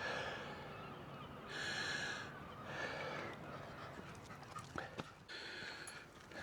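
Heavy panting breaths at the top of a long climb of steps, slow hissing pulses about every second and a half, with a few faint clicks near the two-thirds mark.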